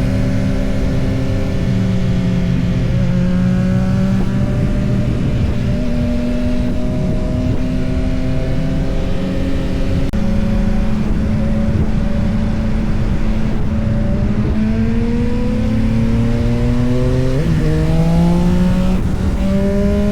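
Yamaha XSR900's 890 cc inline-three engine running on the road over a rushing haze of wind noise. Its pitch holds fairly even at first, then rises as the bike accelerates in the last several seconds, with a sudden step in revs about seventeen seconds in.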